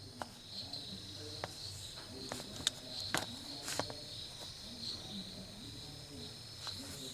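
A steady high chirring, like insects, with scattered sharp clicks on top.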